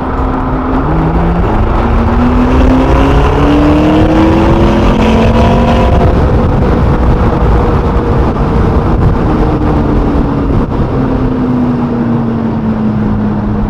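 Sports car engine revving up over the first several seconds, holding, then slowly dropping in pitch near the end, over heavy low road and wind rumble.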